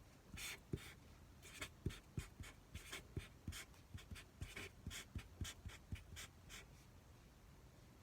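A run of short scratchy rustles, each with a soft knock, about two to three a second, stopping about two seconds before the end: things being handled at a meal of delivered food.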